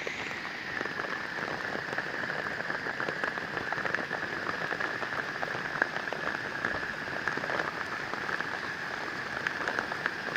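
Steady rain, with many separate drops hitting close by, over the rush of rainwater runoff pouring into a pond.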